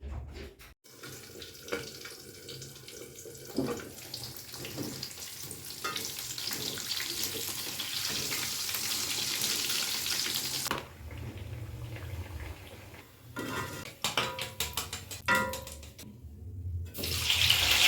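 Kitchen tap water running in a steady hiss, stopping and starting, with a few clattering knocks in between.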